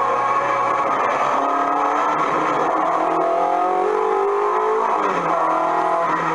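Recorded rally car engine sound effect played through a coin-operated kiddie ride's speaker. The engine revs up in a long rising whine, drops back about five seconds in, then begins rising again.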